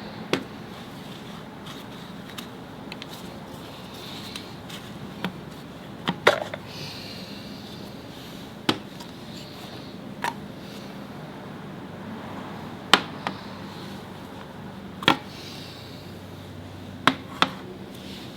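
Hand tools and metal parts being handled during transmission oil pan work: about a dozen sharp, single clicks and knocks at uneven spacing, over a steady low workshop hum.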